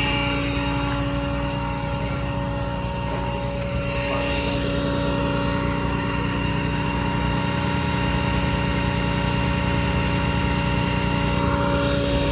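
Steady engine drone holding one constant pitch, with a continuous low rumble underneath.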